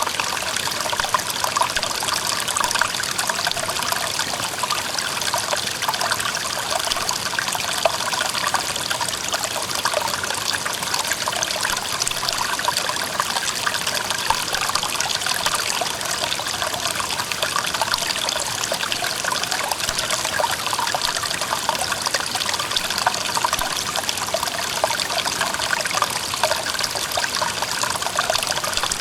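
Clear mountain stream running over rocks: a steady rush of water with many small gurgles and trickles.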